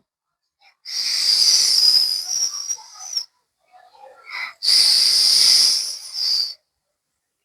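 A child imitating the wind by blowing hard through pursed lips: two long whistling hisses of about two seconds each, with a short pause between them.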